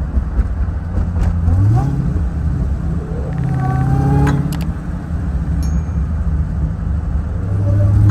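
Car engine running under way with a steady low drone, revving up in pitch about two seconds in, again around four seconds, and near the end.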